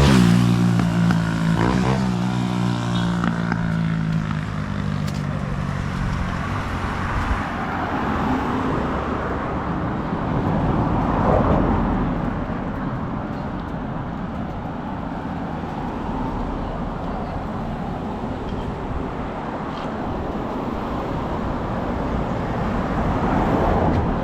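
Motor vehicle engine running with a steady hum that fades out over the first several seconds, then road traffic noise with a vehicle passing loudly about eleven seconds in.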